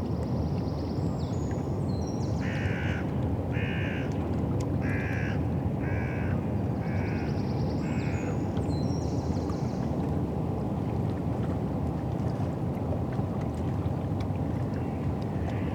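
A crow cawing six times in an even series, about one call a second, with thinner high-pitched bird calls near the start and again around the last caw. Underneath runs a steady low rumble of river and wind noise.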